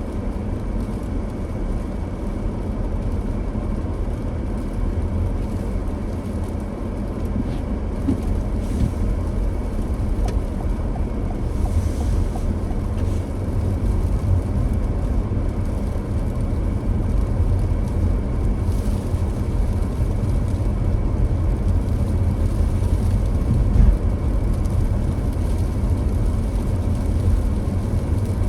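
Steady low rumble of a car driving on a snowy road, engine and tyres running evenly, with a few faint swells of hiss now and then.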